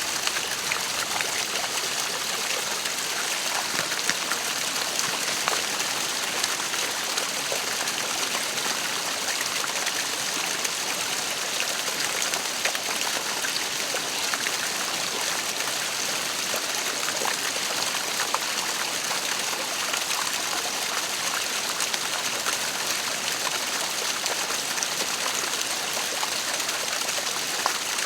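A waterfall running steadily: an even rush of falling water flecked with small splashes.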